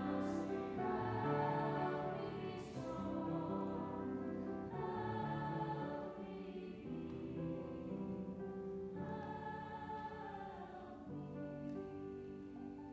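Church choir singing slow, held chords that change every second or two, growing gradually softer toward the end.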